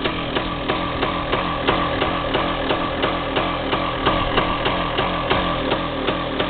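DT360A engine idling roughly with the choke on just after a cold start, running unevenly with sharp pulses about three times a second over a steady hum.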